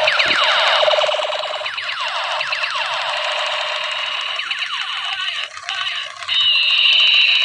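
Battery-powered toy MP5 gun's electronic sound chip playing its siren-like firing effect: rapid, repeated falling sweeps of pitch that run on continuously and cut off suddenly at the end.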